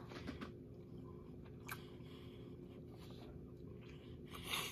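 A person chewing a mouthful of a turkey sub, with faint wet mouth clicks and a slightly louder smack near the end. The roll is stale and chewy.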